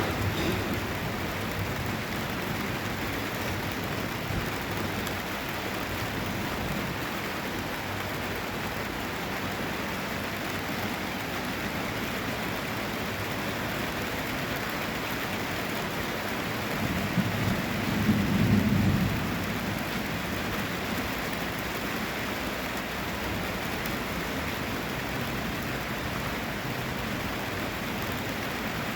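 Heavy rain falling steadily and splashing on city surfaces. A low rumble swells briefly about two-thirds of the way through.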